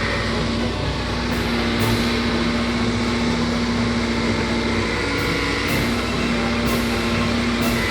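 A vehicle engine running steadily, with a constant hum throughout.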